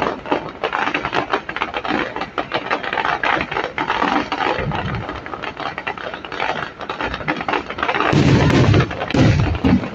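Fireworks going off: dense crackling and popping, with deeper booms about halfway through and a louder run of booms near the end.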